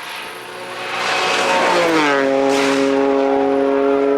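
Rally car coming in at speed, its engine getting rapidly louder. Its engine note drops in pitch about two seconds in, then holds steady and loud.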